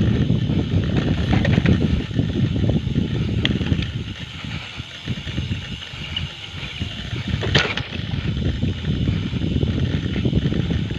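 Wind buffeting the microphone during a bicycle ride, an uneven low rumble that eases a little in the middle, with one sharp click about two-thirds of the way through.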